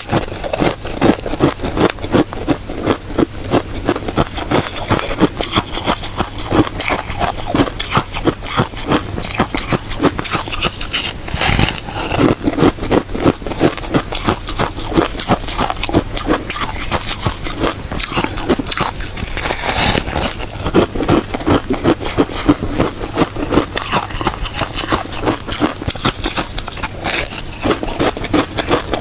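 Continuous crunching of shaved ice being bitten and chewed, a rapid, uneven run of crisp cracks and crackles.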